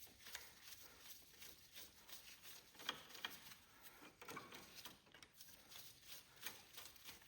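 Near silence, with faint scattered metallic clicks and taps of a hand wrench working a small 7 mm bolt.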